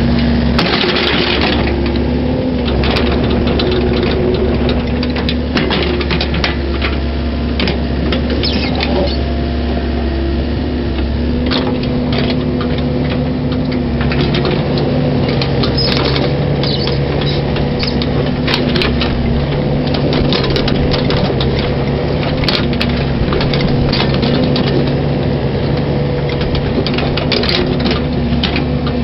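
Mini excavator's diesel engine running steadily under work, its note shifting slightly now and then, with frequent short clanks and knocks from the machine as it backfills the trench.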